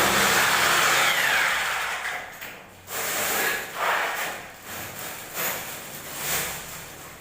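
Power tool running, its pitch falling about a second in as it winds down, then several short irregular bursts.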